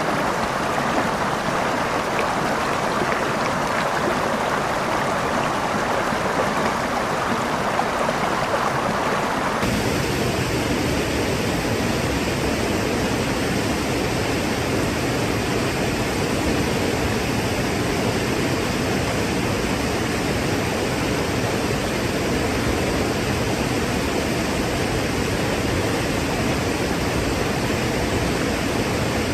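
Water rushing steadily down a waterfall. About ten seconds in it cuts abruptly to a different, deeper rush with more low rumble.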